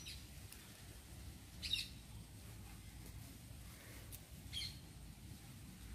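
Two faint, short bird chirps, about a second and a half in and again near the end, over a quiet outdoor background.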